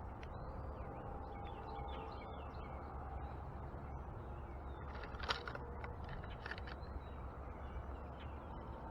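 Backyard birds chirping and calling in short scattered notes over a steady low background rumble, with one louder short call about five seconds in.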